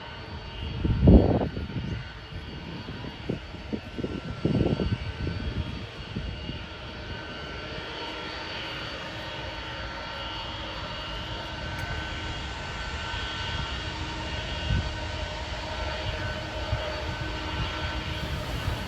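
Jet airliner engines with a steady high whine that slowly grows louder. Two deep thumps of wind buffeting the microphone come about a second in and again at about four and a half seconds.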